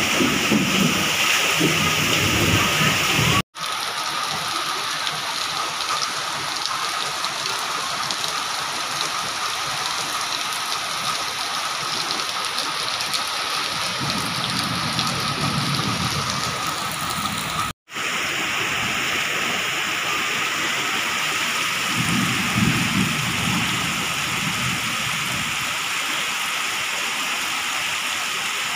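Heavy tropical rain pouring steadily, a dense even hiss. Low rumbles come twice, about midway and again a few seconds later. The sound drops out for an instant twice.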